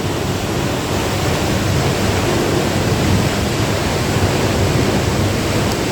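Waterfall pouring into the canyon: a steady, even rush of falling water close by.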